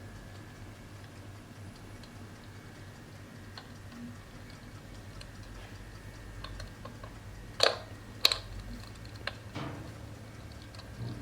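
Electric fireplace's crackling-fire sound effect: sparse small clicks and pops like burning wood, with two sharp, louder pops about three quarters of the way through.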